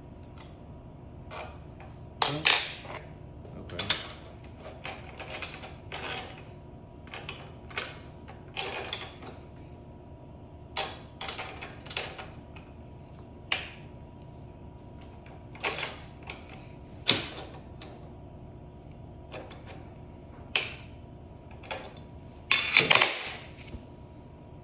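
Hand tools and metal parts clinking and knocking at irregular moments during mechanical work, with a louder rattling cluster near the end, over a faint steady hum.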